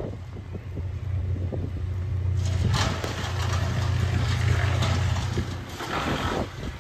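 Strong wind buffeting the microphone: a steady low rumble, with two louder rushes of wind noise about two and a half and six seconds in.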